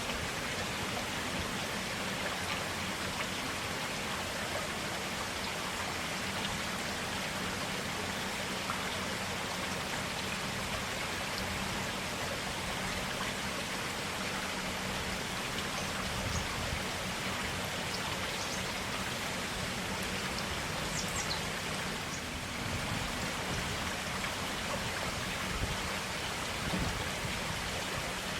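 Forest stream flowing: a steady, even rush of clear running water.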